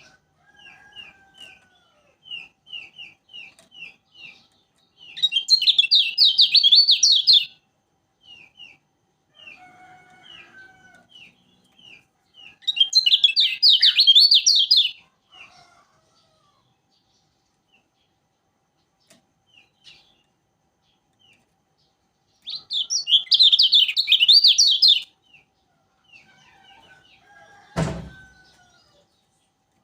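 Kecial kuning calling: a string of short, repeated down-slurred chips broken three times by loud bursts of rapid warbling song, each lasting about two seconds. A single sharp knock comes near the end.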